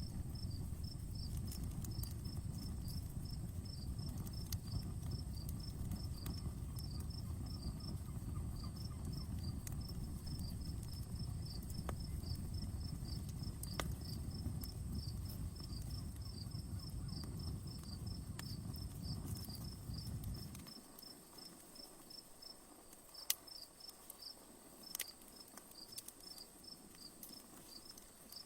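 Crickets chirping steadily over a campfire that gives a few sharp crackling pops. A low rumble underneath stops suddenly about two-thirds of the way through.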